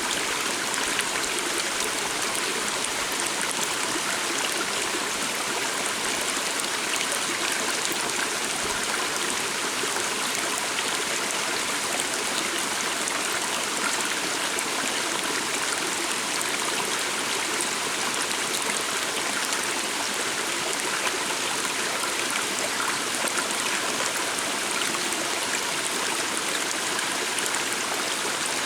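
A calm water stream flowing steadily, a continuous even rush of running water.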